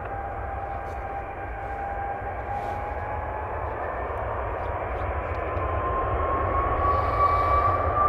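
Jet airliner's engines: a steady roar and rumble with a high whine that climbs slowly in pitch, growing louder in the second half.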